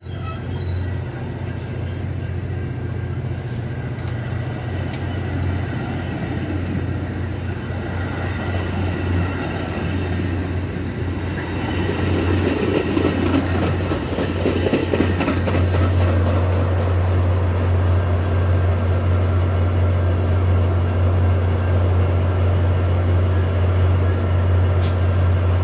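Metra bilevel gallery commuter train rolling along a station platform: a steady deep hum under the rumble and rattle of the cars on the rails, growing louder about halfway through.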